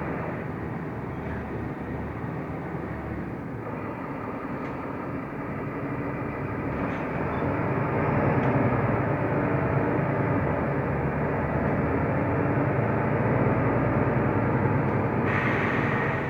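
Inside a moving Mercedes-Benz O345 Conecto LF city bus: steady engine hum and road noise while driving, growing louder about halfway through.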